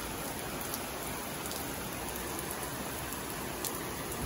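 Heavy rain coming down hard in a steady hiss, with a few faint ticks of drops.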